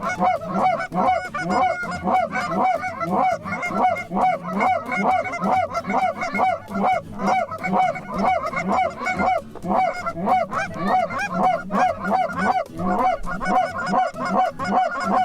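A flock of geese calling, many overlapping honks several times a second in a continuous chorus.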